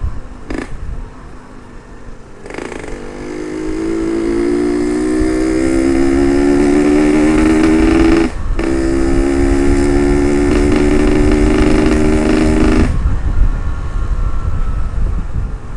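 Yamaha RX-King 135 two-stroke single, ported, accelerating hard with its pitch climbing. It upshifts with a brief break about eight and a half seconds in, climbs again, then the throttle shuts off near the end. Wind rumble on the helmet camera runs underneath.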